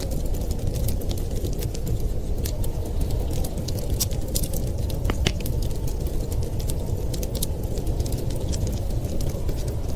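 Wood fire crackling, with many irregular sharp pops and snaps, over a steady low rumble of storm wind.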